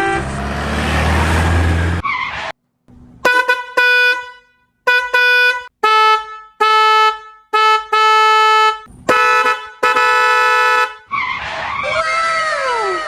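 Car horn honking about ten times in a row, a mix of short beeps and longer blasts, after a couple of seconds of rumbling noise. Near the end several falling whistle-like glides overlap.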